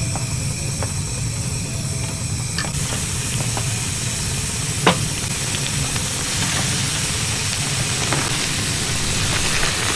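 Food frying in a hot pan, a steady sizzle that thickens about three seconds in, with one sharp tap of a utensil near the middle.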